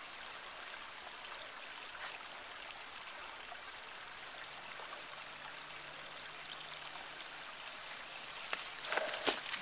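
Steady rushing of a stream or creek, with a few sharp knocks near the end.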